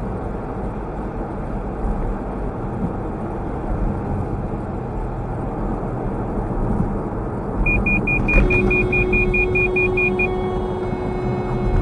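Road and engine noise of a car driving, heard from a dashcam inside the car. About eight seconds in, a rapid run of short high electronic beeps sounds, about five a second for two and a half seconds, and a steady hum joins it.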